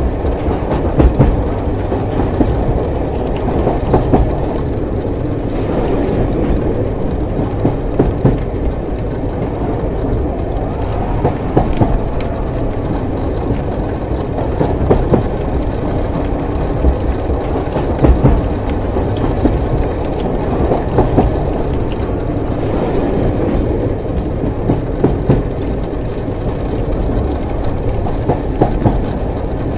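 Moving train: a steady low rumble of the carriage running on the rails, with wheel clacks over rail joints every second or two.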